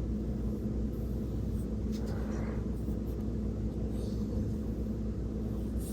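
Steady low background hum, with a faint soft brushing of paint about two seconds in.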